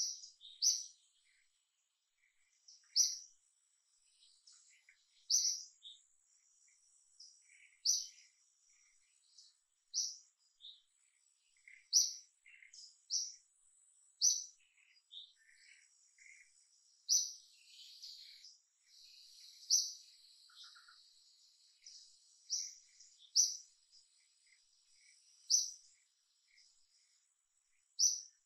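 A bird calling over and over, a short, sharp, high chirp about every two seconds with fainter chirps in between, over a thin steady high tone.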